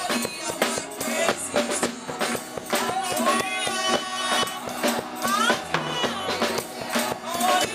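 Live church band playing gospel music, with a drum kit and tambourine keeping a steady beat under a melody line.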